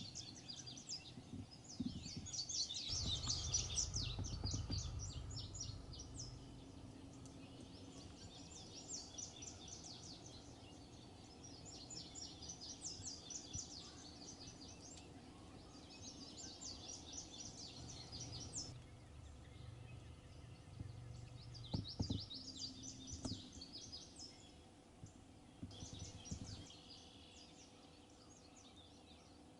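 Songbirds singing, quick chirps and trills overlapping one another throughout. A low rumble swells about three seconds in, and two sharp clicks come near the end.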